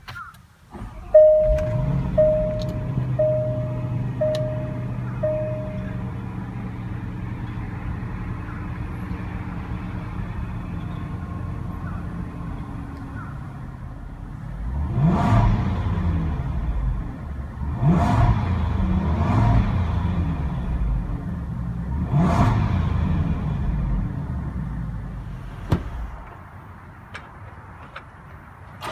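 Range Rover's 5.0-litre supercharged V8 starting with push-button start about a second in and settling into a steady idle, while an in-car chime beeps five times about a second apart. Around the middle the engine is revved three times, each rise falling back to idle, then idles more quietly near the end.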